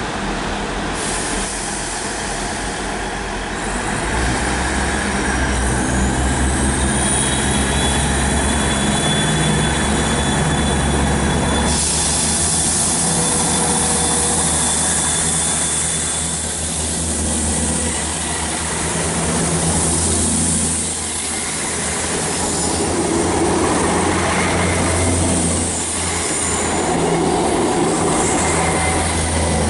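Passenger multiple-unit trains moving along station platforms. A motor whine rises in pitch, then about twelve seconds in there is a sudden loud rush of hiss and wheel-on-rail noise, all over a steady low engine hum.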